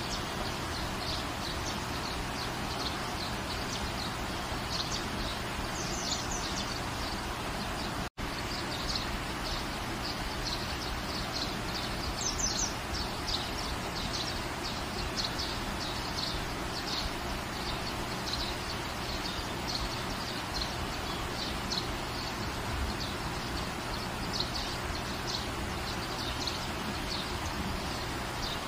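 Steady rain falling as an even hiss, with small birds chirping over it again and again. The sound cuts out for an instant about eight seconds in.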